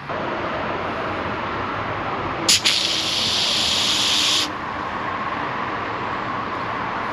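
Water rushing into newly soldered copper pipe as the supply is turned on, with a loud hissing spray for about two seconds, about two and a half seconds in, set off by two sharp clicks.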